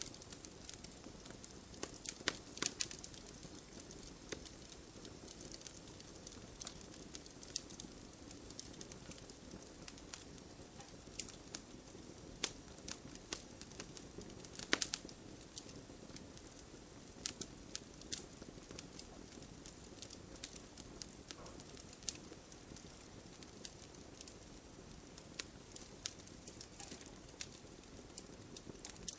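Wood fire crackling with irregular sharp pops and snaps, a few louder ones, over a steady hiss of gentle rain.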